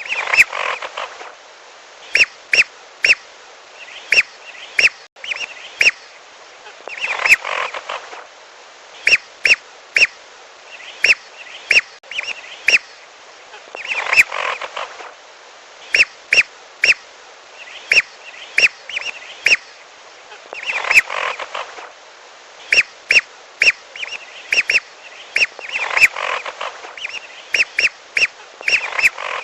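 Whistling duck calls played as a hunting lure recording: short sharp whistled notes in quick groups of three to five, with a longer noisy chatter about every seven seconds, repeating in a loop.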